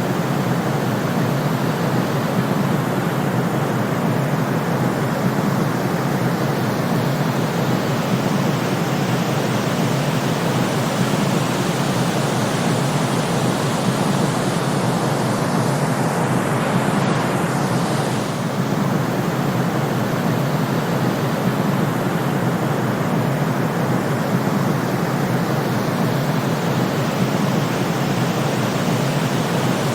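Steady white-noise sleep track: an even, unbroken hiss, fuller in the low and middle range than at the top.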